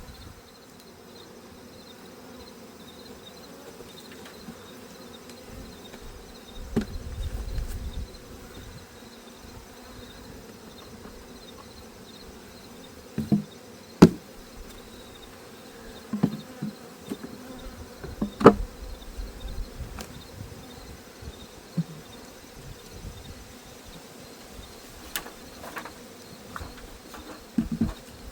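Honeybees humming steadily around an opened hive, with a few sharp knocks of hive frames and boxes being handled, the loudest about 14 and 18 seconds in.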